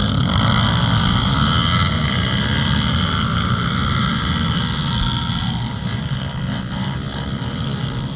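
Pit bike engine running steadily, with a continuous drone that holds its pitch and eases off slightly in loudness near the end.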